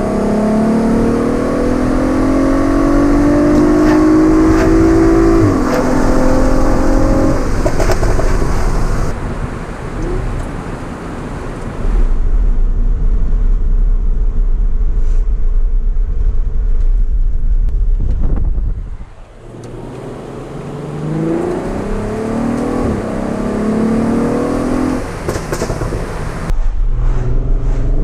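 Audi TT Mk2's swapped-in 3.6 VR6 engine through a Varex valved exhaust, accelerating hard with the revs climbing and a quick upshift about five seconds in. It then runs more steadily before pulling hard again, with quick upshifts in the later part.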